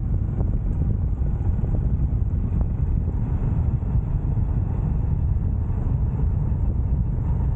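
Wind and road noise from a moving motorcycle: a steady low rumble with no changes.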